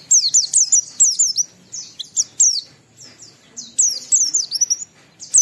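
White-eye (pleci) singing vigorously: fast bursts of high, downward-sweeping twittering notes, with a short pause about three seconds in.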